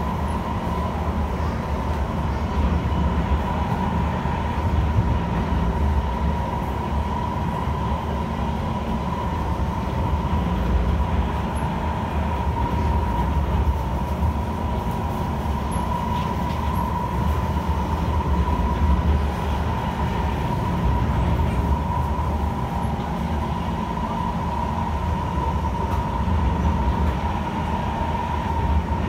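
Kawasaki C151 electric multiple unit running at a steady speed: an even low rumble of wheels on track with a steady high-pitched hum over it.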